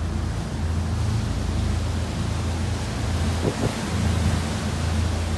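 Wind buffeting the microphone aboard a moving tour boat: a steady low rumble that swells and eases, with a haze of water noise.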